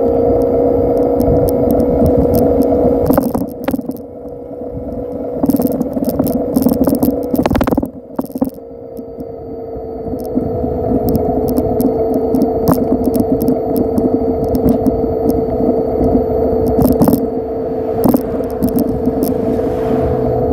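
Faraday Cortland electric bike being ridden, its motor giving a steady whine over rolling rumble, with frequent rattles and clicks from the bike. The sound briefly drops away twice, around four and eight seconds in.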